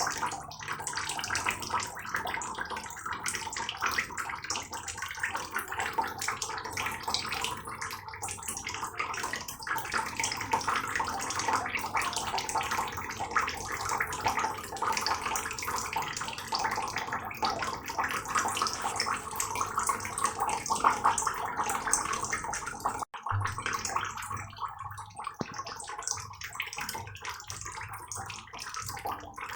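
Heavy rain falling steadily, a dense patter of many drops. The sound cuts out for an instant about three-quarters of the way through.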